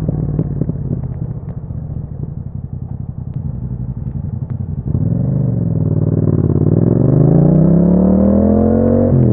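2021 Yamaha MT-07's parallel-twin engine through an aftermarket Akrapovic exhaust, burbling unevenly at low revs for about the first half. The throttle then opens and the revs climb with a steadily rising pitch, followed by a quick gear change near the end.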